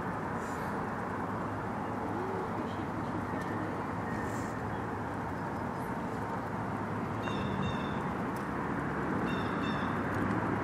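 Birds calling: two short runs of quick repeated high chirps in the second half, over a steady rushing background noise.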